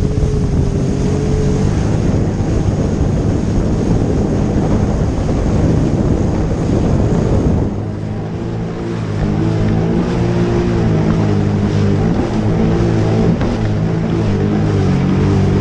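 Jet ski engine running under way, with wind and rushing water over it. About eight seconds in the rush eases a little and the engine's steady hum comes through more plainly.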